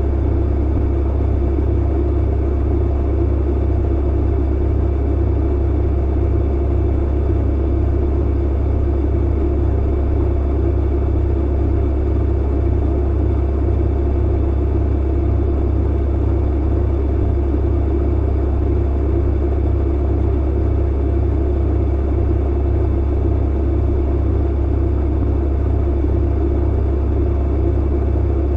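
Clothes dryer running with a steady, unchanging low hum and rumble.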